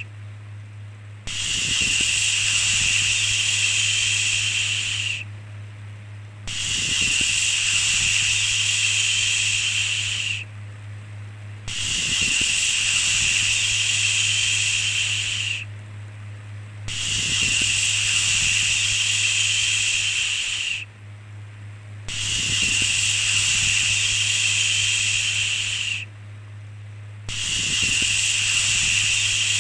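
A long 'shhh' shushing hiss repeated over and over, each shush lasting about four seconds with a pause of about a second before the next, over a steady low hum.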